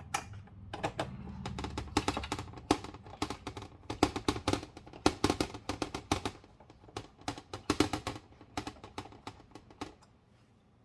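Screwdriver driving small screws into a metal housing: rapid, irregular clicks and taps of metal on metal, with handling rumble in the first couple of seconds, thinning out near the end.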